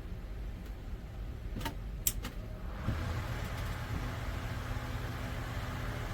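A few light clicks, then about three seconds in an electric shutter exhaust fan comes up to speed and runs with a steady motor hum and a rush of moving air.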